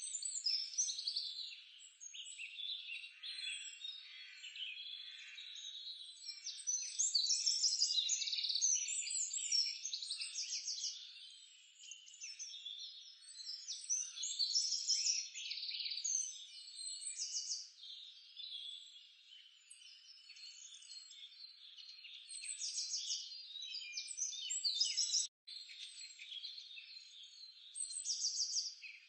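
Chorus of small animal calls, birds and frogs: many overlapping high chirps and fast trills, rising and falling in loudness, broken by a brief dropout near the end.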